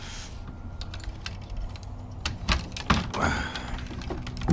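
Scattered light clicks and knocks as hard plastic kayak fishing gear (milk crate, rod holders, leash clips) is handled, over a faint steady low hum.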